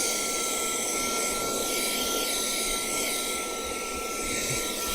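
Cordless handheld vacuum cleaner running steadily: a high, even motor whine over the rush of air through the nozzle.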